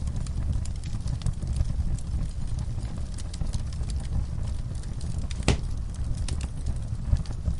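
Wood fire burning in a fireplace: a steady low rumble of the flames with scattered crackles and one louder pop about five and a half seconds in.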